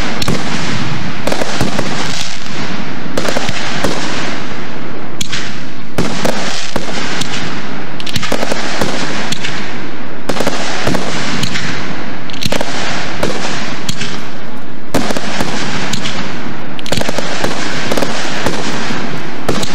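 Aerial firework shells launching and bursting in quick succession: a dense run of bangs and crackles with no break, loud throughout.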